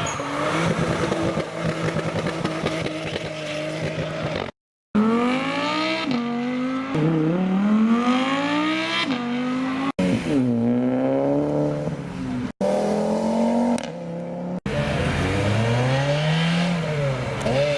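Sports car engines revving and accelerating hard as they pull away, the engine note climbing and dropping back at each gear change, in several short passes that cut off abruptly.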